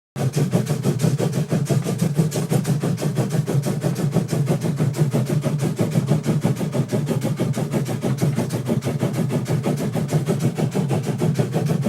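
An engine running steadily with a fast, even pulsing beat, which starts and cuts off abruptly.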